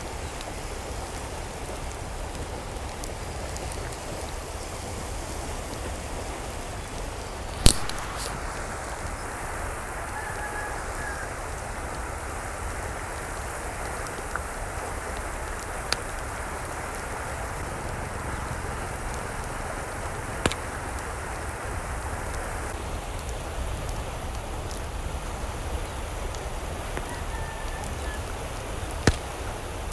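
Steady hiss of water, like rain or running water, with a few sharp clicks, the loudest about eight seconds in.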